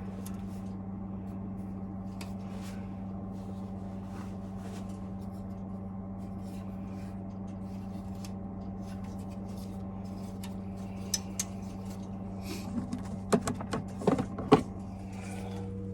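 Boiler burner being refitted by hand: scattered light clicks and scraping of metal parts, then a cluster of sharper knocks and clicks near the end. A steady low hum runs underneath.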